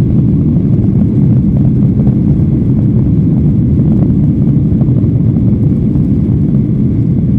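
Steady low roar of jet airliner cabin noise inside a Boeing 737-800, from its CFM56 engines and the airflow around the fuselage.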